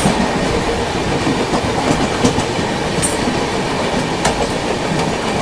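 Two trains passing each other at speed on adjacent tracks: a steady loud rush of coach wheels and bodies. A few sharp clicks come through, about three and four seconds in.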